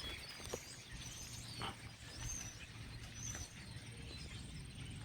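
Faint small birds chirping in short calls a few times, over a low steady hum and a thin high-pitched tone.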